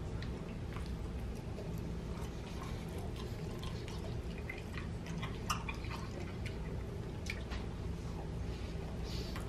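Soft, irregular clicks and mouth sounds of someone chewing a quesadilla, over a steady low room hum, with one sharper click about five and a half seconds in.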